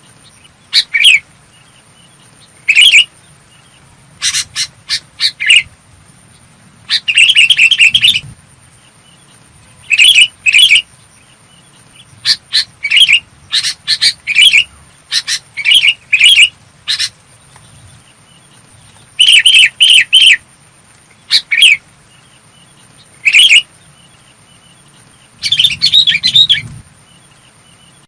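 Sooty-headed bulbul calling in short, clear, bubbling phrases of a few quick notes. Each phrase is separated by a pause of one to three seconds, over a faint steady high whine.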